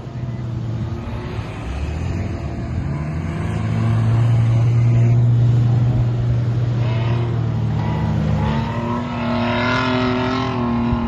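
Off-road vehicle's engine being revved, held at a steady loud drone for several seconds, then its note climbs higher near the end.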